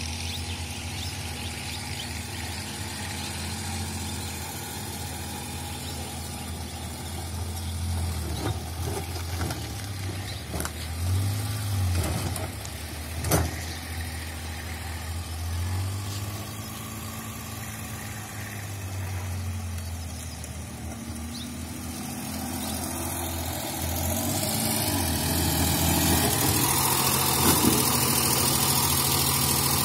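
Maruti 800 hatchback's small three-cylinder petrol engine running at low speed as the car is manoeuvred slowly, getting louder as it draws near in the last few seconds. A single sharp knock sounds about halfway through.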